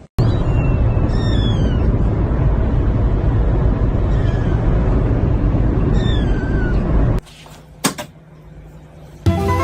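A cat meowing four times, short falling cries, over a loud steady rushing noise. The noise cuts off about seven seconds in, and a sharp click follows.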